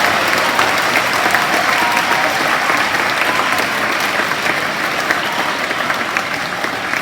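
Audience applauding: many hands clapping at once, slowly dying down toward the end.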